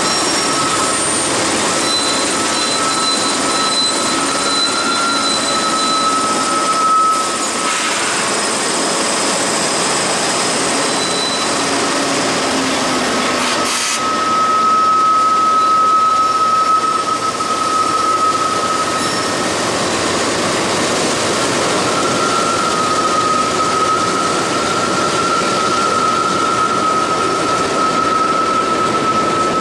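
Two Canadian Pacific GE AC4400CW-type diesel-electric locomotives, 16-cylinder GE 7FDL engines, pass close by on a steel bridge at the head of a freight train. Covered hopper cars roll over the bridge after them from about halfway through. A steady high-pitched tone comes and goes over the loud train noise.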